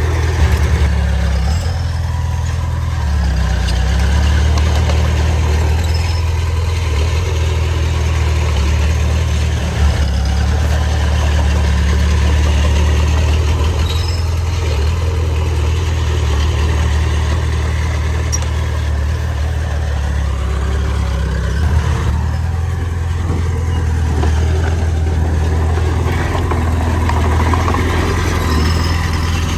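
Bulldozer's diesel engine running steadily with a deep drone, with a few brief knocks about half a second in, near the middle and about two-thirds of the way through.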